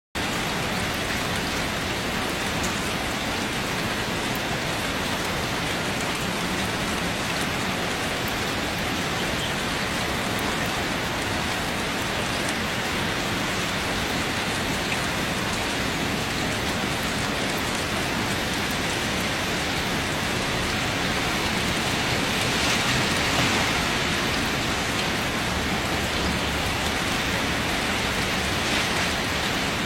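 Steady rain falling: a continuous, even hiss that swells a little about two-thirds of the way through.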